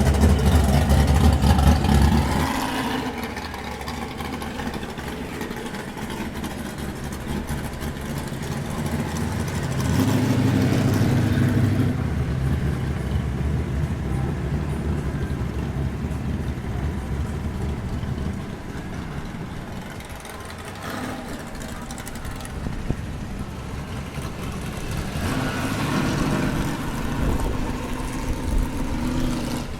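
Car engines running at low speed close by: loudest in the first two seconds, again around ten seconds in and near the end, with a quieter engine hum in between.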